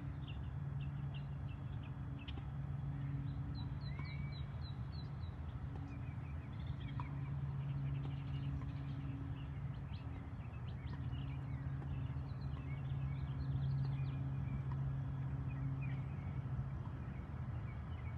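Small birds chirping and twittering in many short notes throughout, over a steady low hum.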